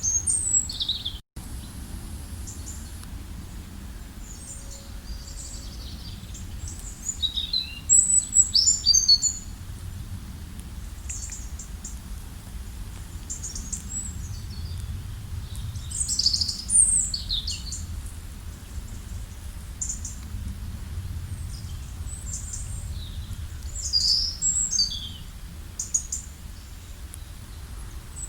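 Songbirds chirping and singing in scattered groups of quick, high notes, loudest about 8 and 16 seconds in, over a steady low rumble. The sound drops out for an instant about a second in.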